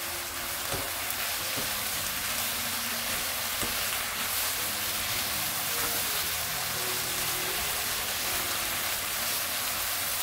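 Sliced eggplant, onion and chilies stir-frying in a hot nonstick pan, tossed with chopsticks: a steady sizzle. This is the last minute of frying, after oligosaccharide syrup and sesame oil have gone in.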